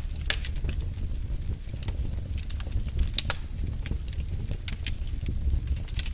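Wood fire burning in a fireplace: a steady low rumble of flame with scattered sharp crackles and pops, two louder snaps about a third of a second in and about three seconds in.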